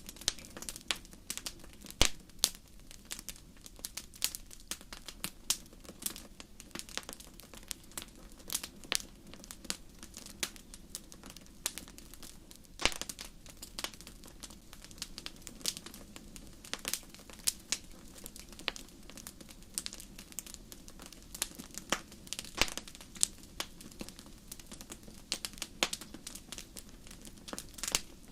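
Wood campfire burning, crackling steadily with irregular sharp pops, a few louder than the rest, over a low hiss of flame.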